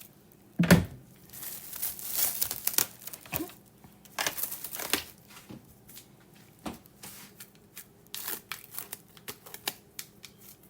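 Plastic cling wrap crinkling and being pulled and torn from the roll, in irregular rustles and snaps, with a louder thump about a second in.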